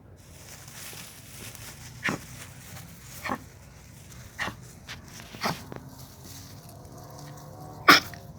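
Poodle giving five short, sharp barks about a second apart, the last the loudest.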